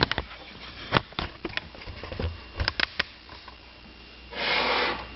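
Kitchen items being handled on a counter: a series of light clicks and knocks, then a short rustling scrape near the end.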